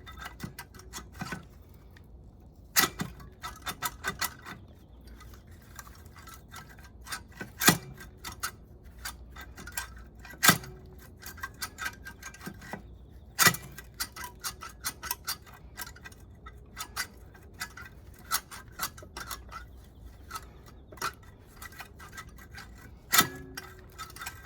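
Hand tools and metal engine parts clicking and clinking during engine disassembly. There are runs of quick small ticks and a sharp metal knock with a brief ring every few seconds.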